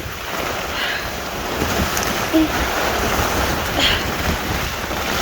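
Heavy rain with wind buffeting the microphone, and a plastic tarp rustling.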